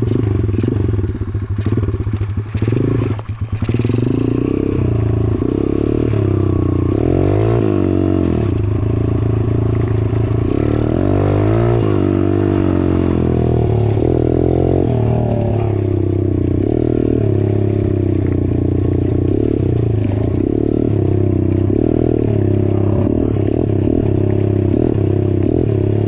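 Dirt bike being ridden, its motor running steadily with its pitch rising and falling a few times as the throttle changes.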